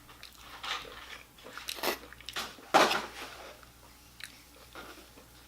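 Close-miked eating of fried fast food: irregular biting and chewing sounds, with a sharper, louder bite about three seconds in.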